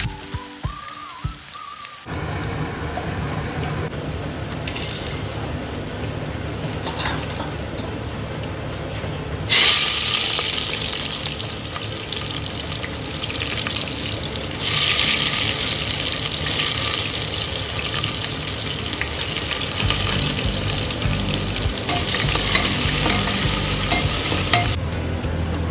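Onions and whole spices sizzling as they fry in hot oil, first in a frying pan and then in a pressure cooker, with a spoon stirring. The sizzle jumps sharply louder about nine seconds in and again around fifteen seconds in. Soft background music runs underneath.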